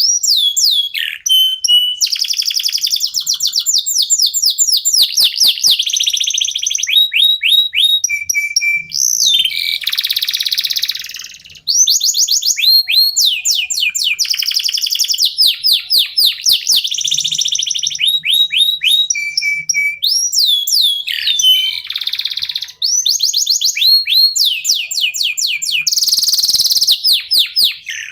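Domestic canaries (local Indonesian canaries) singing a continuous, loud song. It is made of fast trills of repeated down-sweeping notes, with a few harsher, buzzy rolls between them.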